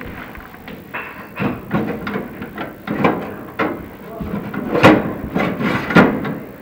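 Irregular knocks, clatter and scraping from equipment being handled, with two louder sharp knocks about five and six seconds in.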